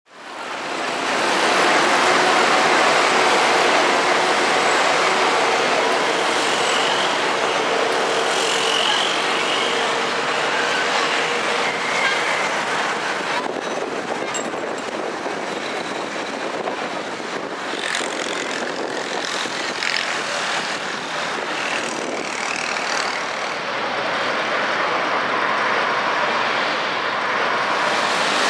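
Strong sandstorm wind: a steady rushing hiss that fades in over the first second and holds throughout.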